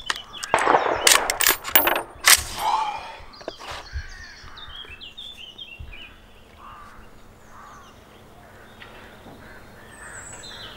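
A few rifle shots in quick succession in the first couple of seconds, with steel target gongs clanging and ringing after the hits. Birds chirp as the ringing dies away.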